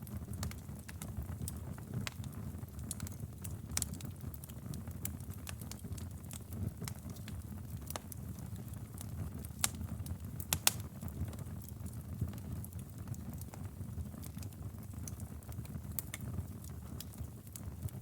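Wood fire burning in a fireplace: a low steady sound of the flames with scattered sharp crackles and pops, a couple of louder pops about halfway through.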